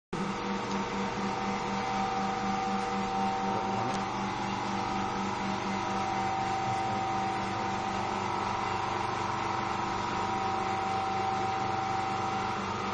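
Steady mechanical hum with a steady whine and a low tone that pulses about three times a second.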